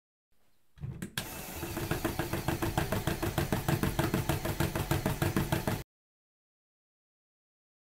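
Motorised LEGO Technic shake table running, its bricks rattling in a rapid, even knock of about five a second over a motor hum. It cuts off abruptly.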